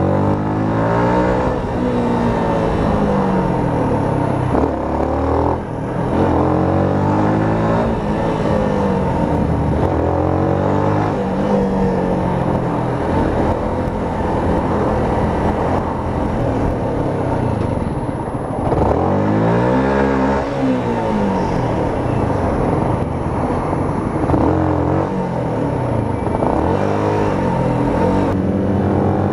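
Yamaha YZF-R125's single-cylinder engine pulling through the gears, its pitch climbing and then dropping back at each shift several times, over a steady rush of wind noise. About two-thirds of the way through, the pitch falls low and then climbs again.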